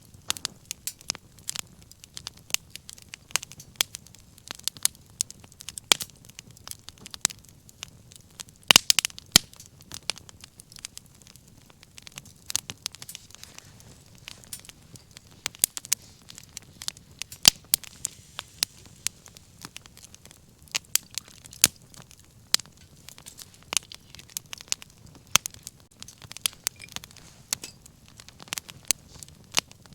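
Wood fire crackling, with sharp irregular pops and snaps over a faint low rush of flame; a quick cluster of the loudest pops comes about nine seconds in.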